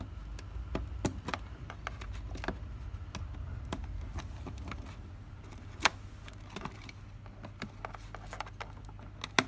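Irregular small clicks and taps of sensor and display-panel wire connectors being handled and plugged into an inverter air-conditioner control board, over a steady low hum. A sharper, louder click comes about six seconds in and another near the end.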